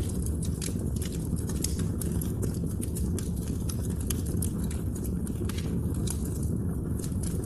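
Wood fire crackling: frequent sharp snaps and pops over a steady low rumble of burning.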